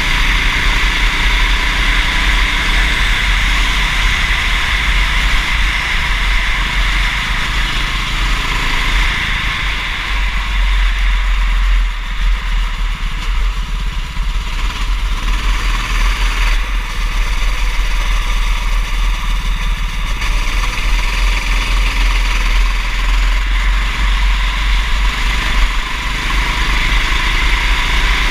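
Go-kart engine running continuously during a wet race, its pitch rising and falling with the throttle, over a heavy low rumble.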